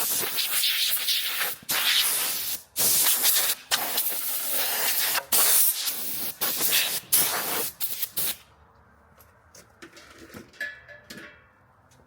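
Loud hissing noise in a run of stop-start bursts, each about a second long, that stops about eight seconds in; a few faint clicks follow.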